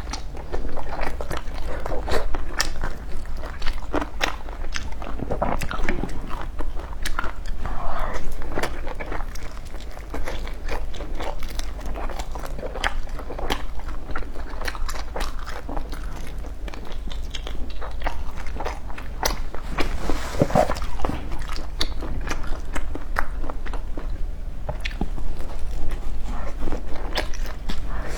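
Close-miked chewing and crunching of crisp fried food, with many irregular sharp crunches, over a steady low hum.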